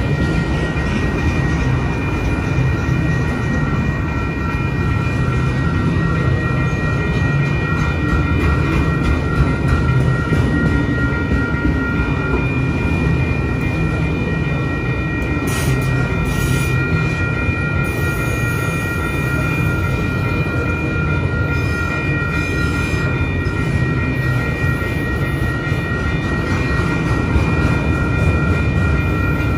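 Autorack freight cars rolling steadily past a grade crossing: a continuous rumble of wheels on rail, with the crossing's warning bell ringing as steady high tones throughout. Short hissing bursts come twice about halfway through.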